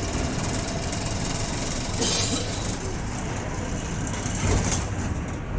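A bus engine runs with road noise, heard from inside the driver's cabin, with a steady low rumble. A short burst of hiss comes about two seconds in.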